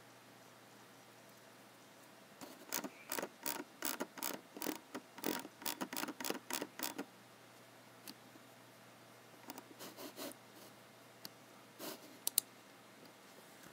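Typing on a computer keyboard: a quick run of keystrokes lasting several seconds, then a few scattered clicks, the sharpest one near the end.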